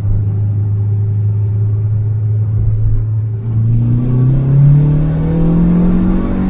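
Turbocharged Mazda 6 2.3 four-cylinder engine running at a steady speed, then revs climbing steadily from about three and a half seconds in.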